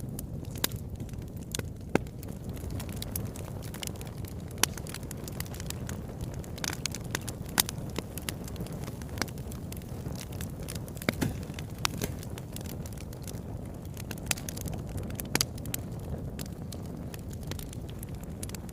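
Wood fire burning in a fireplace: a steady low rush of flames with frequent irregular crackles and sharp pops of burning wood.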